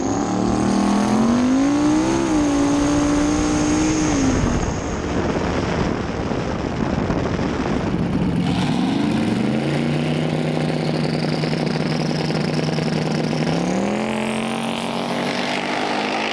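Race car engine running under throttle: its pitch climbs and holds steady, drops about four seconds in, then climbs again, holds, and steps up once more near the end, with a thin high whine riding above it.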